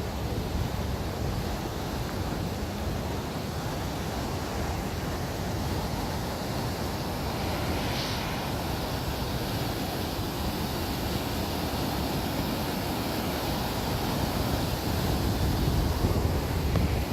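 Floodwater rushing steadily through a whitewater kayak course on a river running far above its normal level, with wind rumbling on the microphone.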